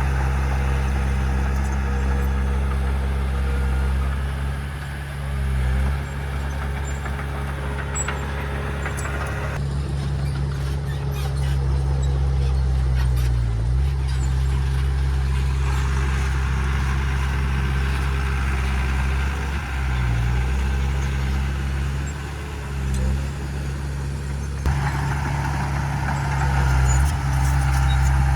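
Heavy diesel engine of earthmoving machinery running steadily, its low engine note sagging and recovering briefly several times.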